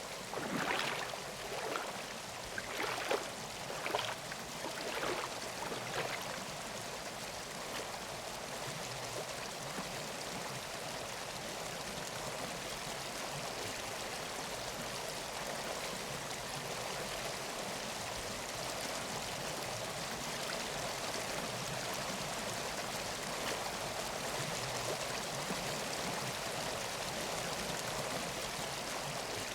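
A forest stream flowing steadily, with a handful of irregular footsteps on the trail during the first six seconds.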